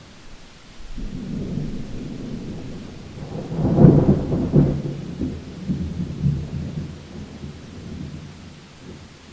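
Thunder rumbling through a rainstorm. A low rumble builds about a second in, peaks with a sharper crackling clap around four seconds, then rolls on and fades away near the end, over steady rain.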